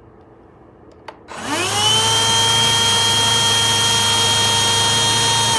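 Powools cordless handheld vacuum switched on with a click about a second in, its motor whining up to speed and then running with a steady high whine, not too loud. Right at the end the pitch starts to drop as it is switched off and spins down.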